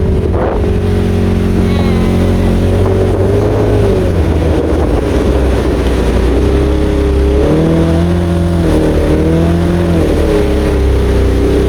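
Fishing boat's engine running steadily under way, its pitch shifting up and down in the second half as the engine speed changes.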